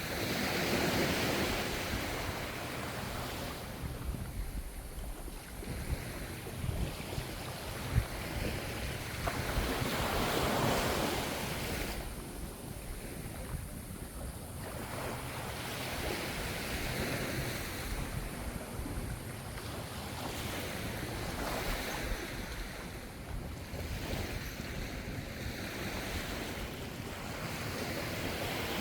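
Ocean waves washing onto the shore, the surf swelling and fading about every five to ten seconds, over a steady low rumble of wind on the microphone.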